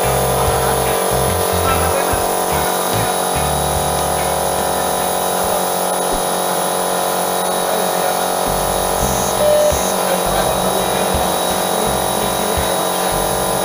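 Small airbrush compressor motor buzzing steadily.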